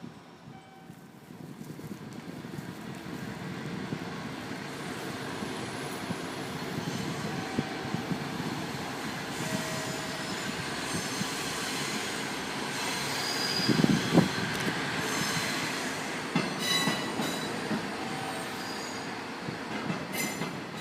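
Two KiHa 48 diesel railcars moving slowly on a shunting move, their diesel engines running, with wheel squeal and clicks over the rail joints. A louder low thump comes about two-thirds of the way through.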